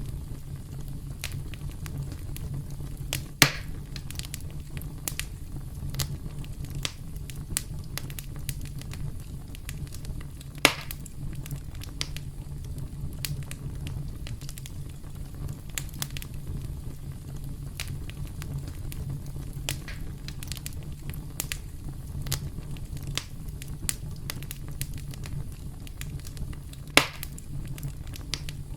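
Campfire crackling: burning wood with a steady low rumble and frequent small crackles. Three louder sharp pops stand out, about three seconds in, around ten seconds in, and near the end.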